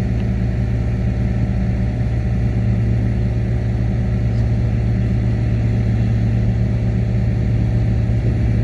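Bulldozer's heavy diesel engine running steadily at constant speed, growing slightly louder toward the end.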